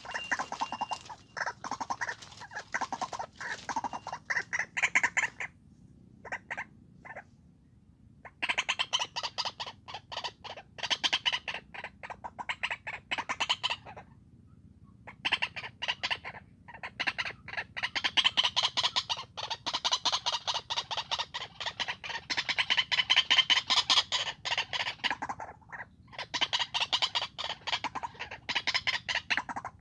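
White-breasted waterhen (ruak-ruak) calling: rapid series of harsh, repeated calls, coming in several long bouts with short pauses between them.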